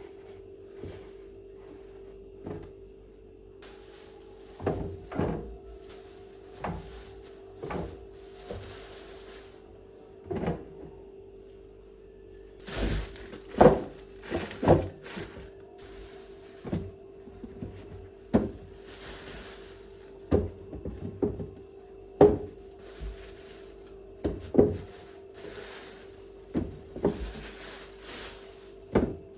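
Household handling sounds: a string of separate knocks and clunks of things being set down and cupboard doors being opened and shut, with short rustles of packaging in between, over a steady hum.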